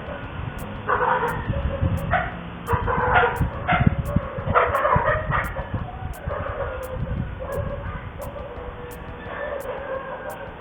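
A dog barking a series of short barks over a low, steady rumble.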